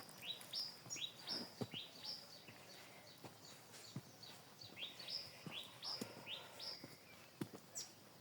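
Small birds chirping in the background: many short, high chirps that fall in pitch, several a second, with faint scattered clicks.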